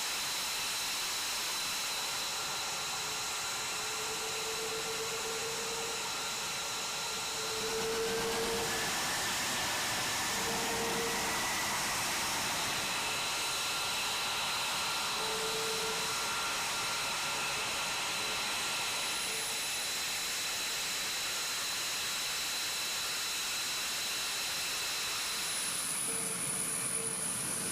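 The twin Pratt & Whitney F119 turbofan engines of an F-22 Raptor running, a steady jet whine with several high-pitched tones over a rushing noise; the pitch rises slightly about eight seconds in.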